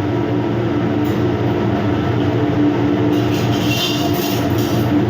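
Steady low machinery drone with a constant hum, and a brief hiss partway through.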